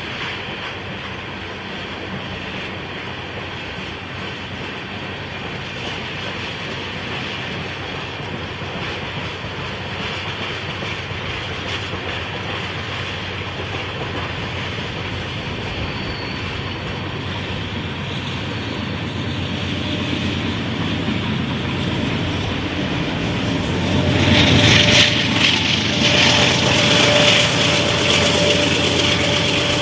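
Freight train of empty tank cars rolling past on an upgrade, a steady rumble of wheels on rail that slowly grows louder. About 24 seconds in it gets sharply louder and brighter, with a steady ringing tone from the wheels on the rail.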